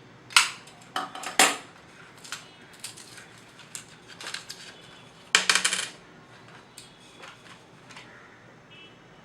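Small sharp metallic clicks and scrapes as a Timex wristwatch's case back is worked open with a blade and its CR2016 coin cell handled. The loudest is a quick rattling run of clicks about five seconds in, with a few lighter ticks after it.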